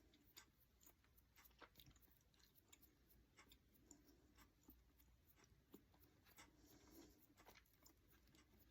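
Near silence with faint, scattered soft clicks and taps from a paintbrush dabbing paint onto small craft pumpkins.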